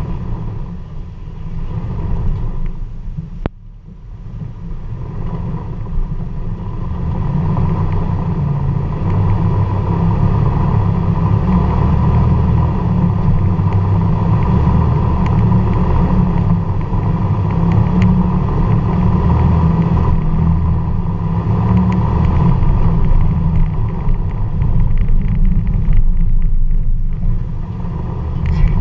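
Jeep TJ's V8 engine running at crawling speed over rocks, a low rumble. It dips briefly about three seconds in, then runs louder and steady.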